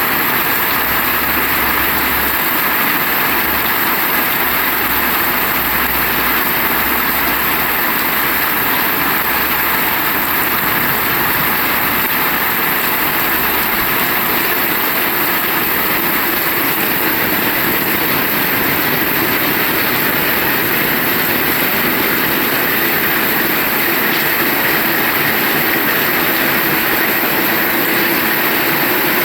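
Heavy rain falling as a loud, steady hiss, with a low rumble underneath through roughly the first half.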